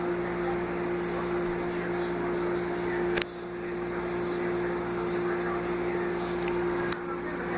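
Microwave oven running: a steady hum with its fan's whirr. A sharp click about three seconds in, after which it runs a little quieter, and another click near the end.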